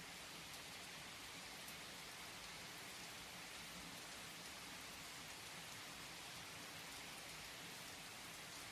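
Steady rain falling: a soft, even hiss with a few faint scattered drop ticks.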